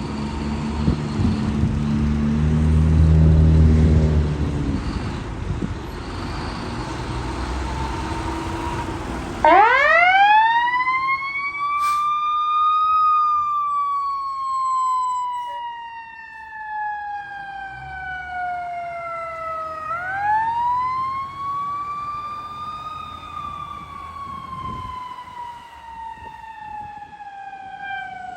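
Fire engine's diesel engine rumbling as the truck pulls out, loudest a few seconds in. Then, about nine seconds in, its siren starts: a wail that winds up quickly to a high pitch and slowly falls away, winding up again about twenty seconds in.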